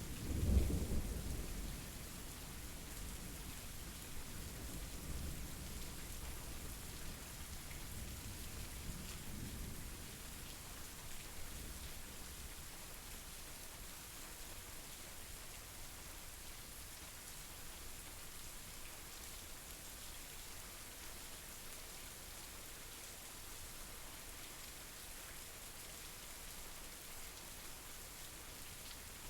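Steady rain falling, with a roll of thunder: a loud low rumble just after the start that dies away over about ten seconds, leaving the even hiss of rain.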